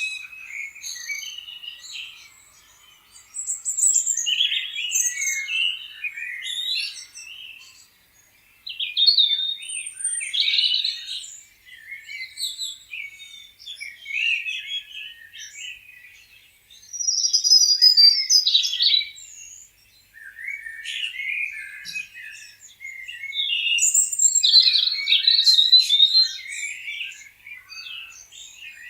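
Several songbirds chirping and singing at once, with overlapping short chirps and quick trills coming in bursts and brief lulls.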